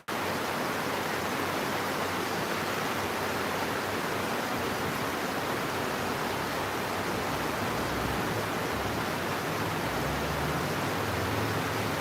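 Steady rain falling, an even unbroken hiss, with a momentary dropout right at the start.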